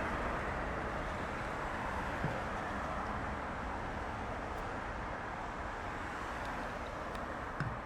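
Jet airliner's engine noise after takeoff, a steady rush slowly fading as the aircraft climbs away. A small knock near the end.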